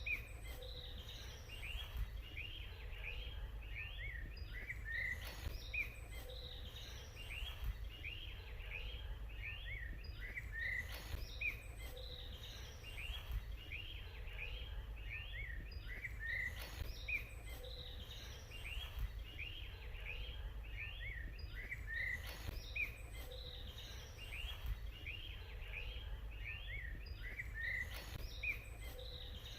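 Small birds chirping and twittering, many short quick chirps overlapping, over a steady low rumble. The same pattern of calls repeats about every six seconds.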